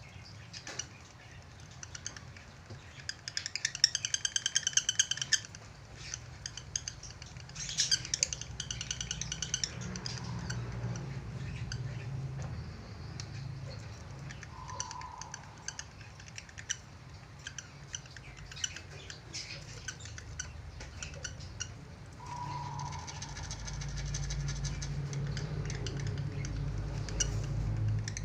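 Budgerigar chattering and squawking, in bursts about three to five seconds in, around eight seconds, and again over the last few seconds.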